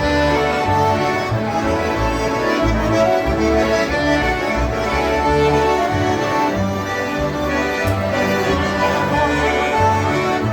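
Concertinas playing polka music together, over a pulsing bass line.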